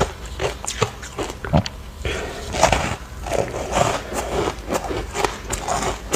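Ice chunks dusted with matcha powder being bitten and chewed close to the mouth: irregular crunching and cracking with wet mouth sounds between bites.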